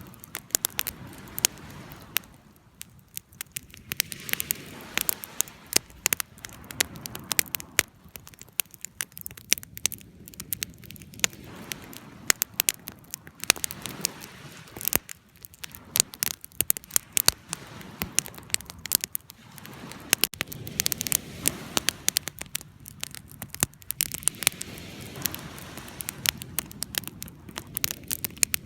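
Wood fire burning and crackling: many irregular sharp pops and snaps over a low, steady rushing of flames.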